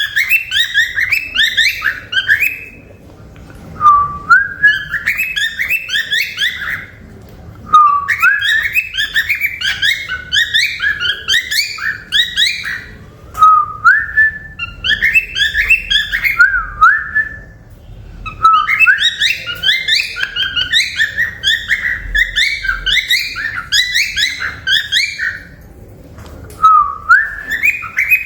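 Male cockatiel chirping and whistling in repeated bursts of quick warbled notes, each a few seconds long and most opening with a rising whistle, with short pauses between.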